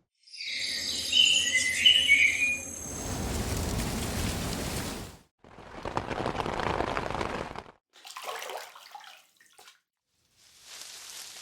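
Birds chirping for the first few seconds over a low hum, then abrupt cuts to a series of rushing noise clips separated by brief silences.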